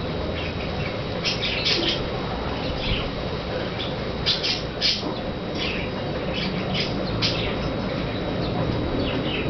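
Camiguin hanging parrot calling: short, high, sharp chirps in quick runs of two or three, repeated every second or two over a steady background hiss.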